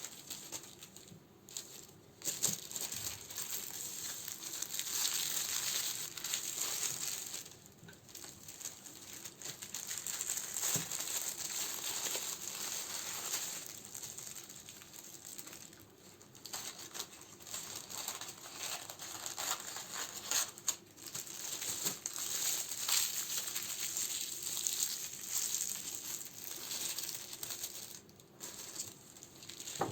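Plastic and paper wrappings crinkling and rustling as candles are handled and sorted, with scattered light clicks and taps.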